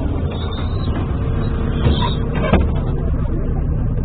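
Steady low rumble of street traffic, with two short knocks a little after halfway through.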